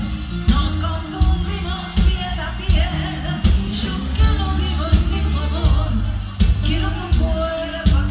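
Live pop band music with a steady beat about twice a second, heavy bass and a melody line above it.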